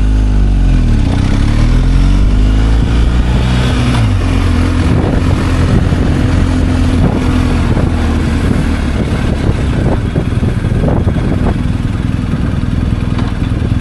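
Motorcycle engine running under way. Its pitch dips and climbs again in the first couple of seconds, drops about four seconds in, then holds fairly steady.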